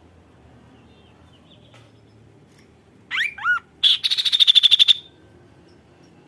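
Kaso-kaso bird singing: two quick looping whistled notes, then a fast trill of about a dozen notes a second lasting about a second.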